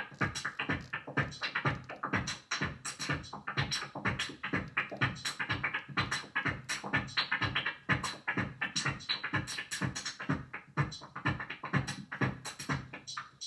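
Electronic drum pattern played on a Dave Smith Instruments Tempest analog drum machine: fast, dense repeating hits with synth tones.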